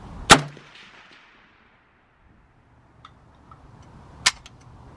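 Two rifle shots about four seconds apart, the first the louder, with a few faint ticks just before the second.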